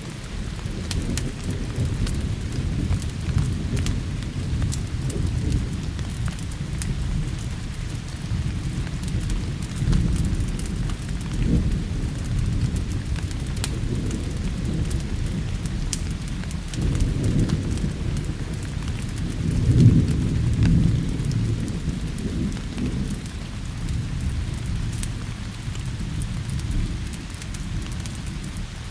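Steady rain with thunder rolling and rumbling throughout, swelling into a louder peal about two-thirds of the way in. Scattered sharp crackles tick over the rain.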